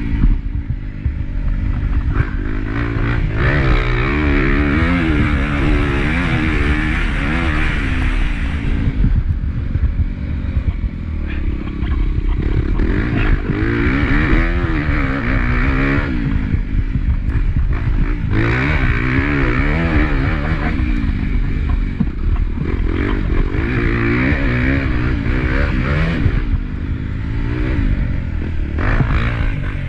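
Honda CRF250 motocross bike's four-stroke single-cylinder engine, recorded on board, revving up and down over and over as the rider accelerates, shifts and backs off around the track, with rushing wind noise.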